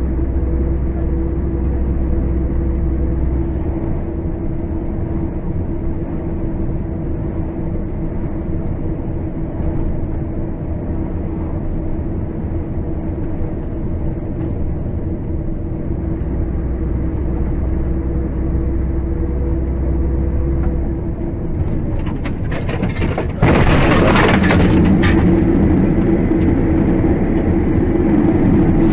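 Car driving: steady engine and road drone with a constant hum. Near the end comes a sudden loud burst of noise lasting about two seconds, after which the drone carries on louder.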